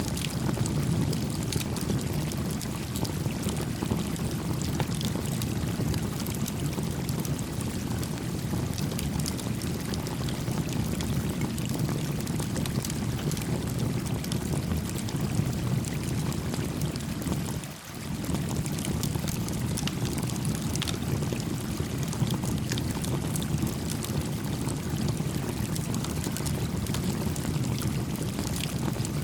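A small stream flowing steadily with a low rushing, overlaid with the scattered crackles of a small wood campfire. The flow sound drops out briefly partway through.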